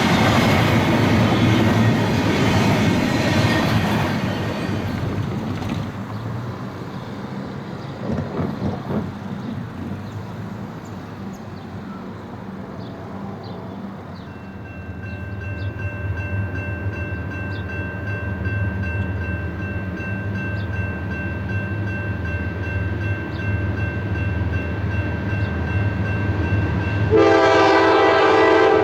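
Rumble of a passing train fading over the first several seconds, then the low drone of an approaching diesel locomotive, with faint steady ringing and small regular ticks typical of a grade-crossing bell. Near the end the locomotive's multi-chime air horn sounds loudly.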